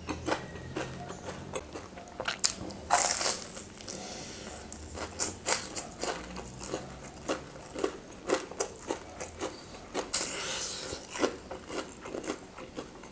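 Close-up chewing and crunching of a breaded, fried cheese corn dog, with many small crunches and two longer spells of crunching, about three seconds in and about ten seconds in.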